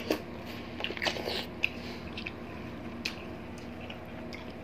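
Biting into and chewing watermelon slices close to the microphone, with sharp crunches about a second in and again near three seconds, over a faint steady hum.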